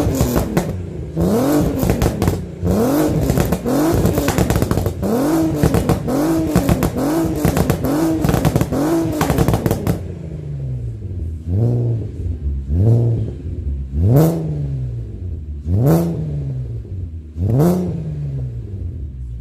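Audi TT 3.2's VR6 engine and exhaust being blipped over and over, each rev rising and falling in about a second, with crackling from the exhaust through the first half. About halfway through the crackle stops and five separate, spaced-out blips follow, each with a sharp crack at its peak.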